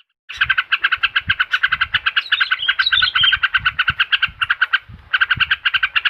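Bird-lure recording for a yellow-vented bulbul (trucukan): a rapid, even pulsing trill, with a short higher warbling phrase over it about two to three seconds in. The trill breaks off briefly near five seconds and resumes.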